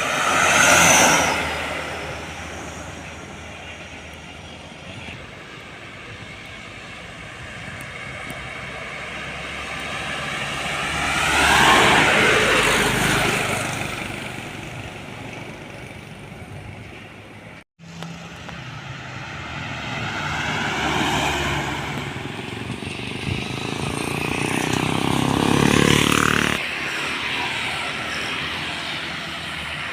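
Trucks driving past on a road one after another, three loud pass-bys with engine and tyre noise swelling and fading as each goes by, the engine pitch dropping as each passes.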